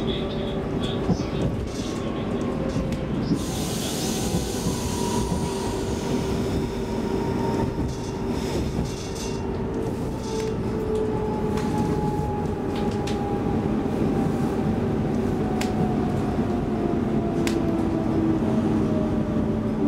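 Cabin sound of an X10 electric commuter train running: a steady rumble of wheels on rail, with a motor whine that slowly falls in pitch. There is a burst of hiss about three seconds in and a few sharp clicks.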